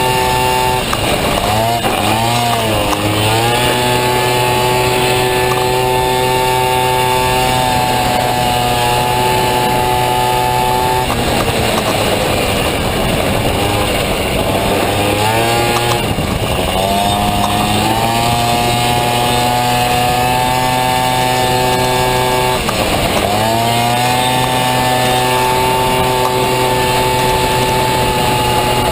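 Two-stroke Honda Dio scooter engine in a Honda Motocompo running hard at a steady high pitch, with the pitch falling and climbing back three times as the throttle is eased off and opened up again.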